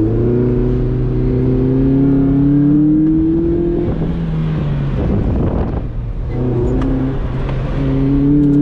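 Mazda Miata's engine accelerating hard on an autocross run with the top down, rising in pitch for about four seconds, then easing off briefly before revving up again near the end.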